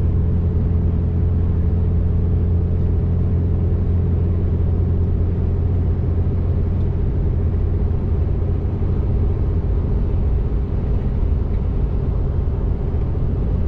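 Vehicle cruising at a steady highway speed: an even, loud low drone of engine and road noise with a constant hum and no change in pitch.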